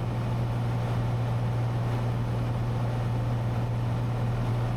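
Cessna 182T's Lycoming IO-540 six-cylinder engine and propeller droning steadily in cruise flight.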